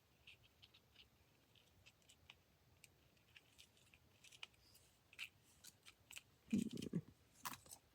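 Scissors snipping paper in a string of small, quiet cuts, with louder handling sounds near the end.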